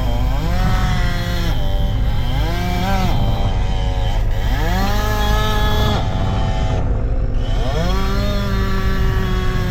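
Chainsaw running at high revs, its pitch sagging and climbing back again every second or two, over a steady low engine hum.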